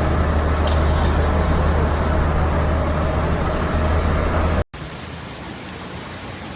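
Heavy rain hissing with a steady low rumble underneath. Both cut off abruptly about four and a half seconds in, and quieter steady rain hiss follows.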